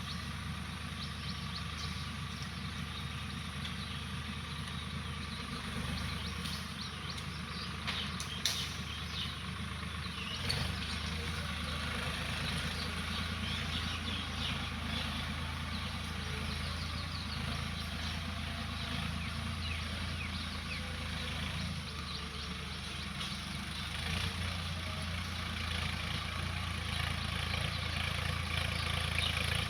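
Swaraj tractor's diesel engine running steadily at low speed, getting a little louder about two-thirds of the way through.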